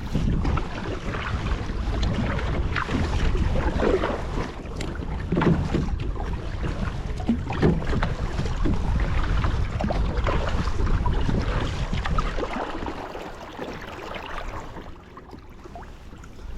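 Water splashing and rushing around a kayak in irregular surges, easing off near the end.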